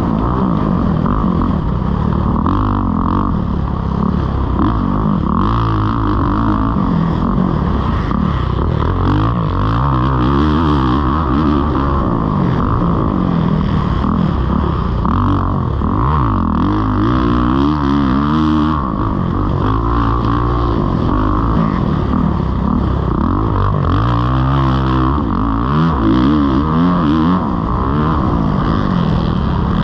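Kawasaki KX450 single-cylinder four-stroke dirt bike engine being ridden, its pitch rising and falling over and over as the throttle opens and closes.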